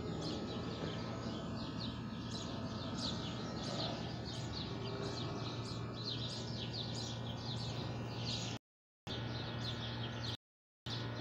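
Small birds chirping, a quick string of short, high, falling chirps about two to three a second, over a steady low hum. The sound drops out completely several times near the end.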